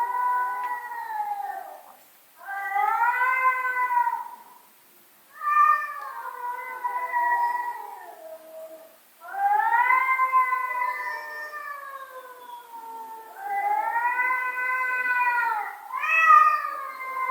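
Domestic cat yowling: a series of about six long, drawn-out calls, each two to four seconds, wavering and sometimes dropping in pitch at the end, with short pauses between.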